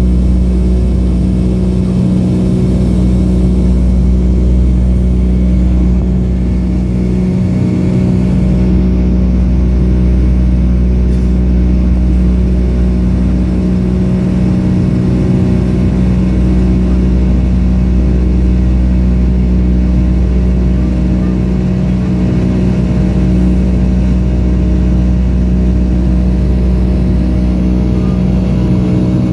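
Steady engine drone heard inside the cabin of a Boeing 757-232 in the climb after takeoff, from its two Pratt & Whitney PW2037 turbofans, with a deep hum and a steady low tone.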